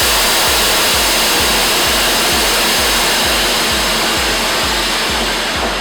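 Loud, steady hiss of compressed air rushing out, starting suddenly and easing off near the end, over background music with a steady beat.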